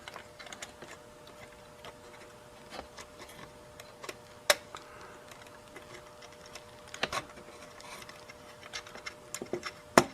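A few scattered sharp clicks and taps of metal tools against the radio's chassis and wiring while the transformer leads are unsoldered, the loudest about four and a half seconds in and just before the end, over a faint steady hum.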